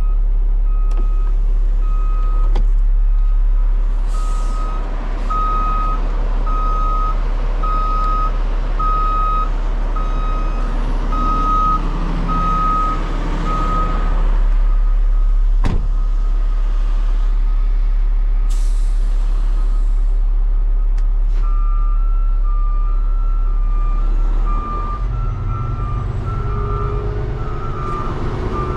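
Truck backup alarms beeping about once a second, swelling and then fading, over an idling diesel truck engine; near the end a second backup alarm with two alternating pitches starts. Two short hisses of air release sound in between.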